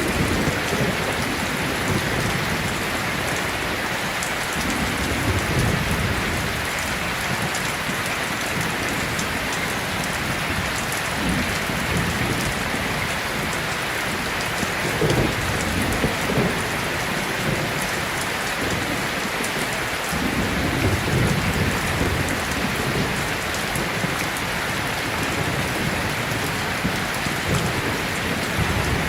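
Heavy rain falling steadily, with low rumbles of thunder rolling in several times.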